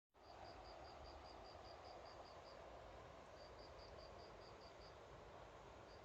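A cricket chirping in rapid high pulses, about five a second, in bouts of a couple of seconds with short pauses between, over faint steady outdoor hiss.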